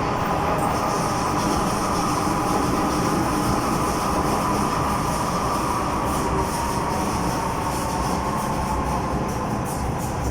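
MTR M-Train electric multiple unit running on the line, with steady rail and running noise and a motor whine that sinks slightly in pitch over the stretch.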